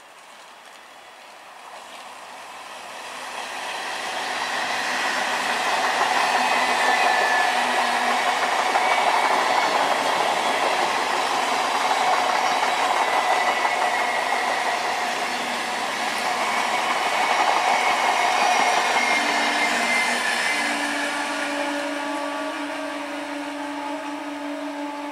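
Indian Railways electric multiple-unit local train passing close by: its wheels and coaches running on the rails grow loud over the first few seconds, stay loud for a long stretch, then slowly fade. From about 20 seconds in, a steady low tone comes in and holds.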